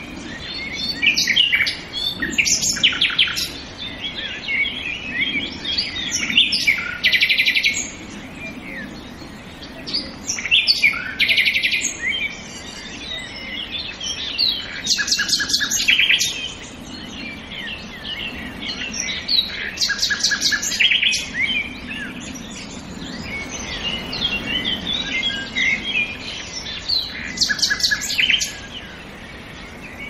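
Several songbirds singing at once: many short chirps and whistles overlapping, with a loud rapid trill every four to five seconds.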